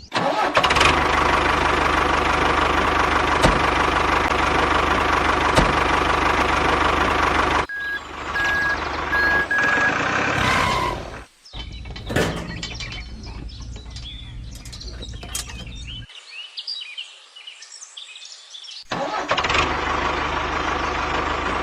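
An engine running steadily at a constant pitch. It cuts off abruptly about eight seconds in, giving way to quieter mixed sounds with a few short beeps. It returns near the end.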